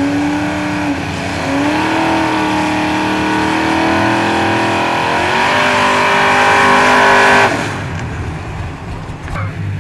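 Street-race vehicle engine pulling hard at full throttle, its pitch climbing and stepping up through the gears, then cut off abruptly about seven and a half seconds in as the throttle is lifted.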